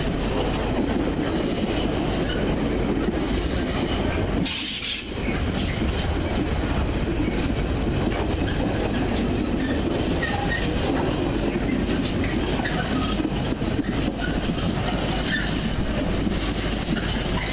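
Train running along the rails, a steady rumble of wheels on track, with a short sharp hiss about four and a half seconds in.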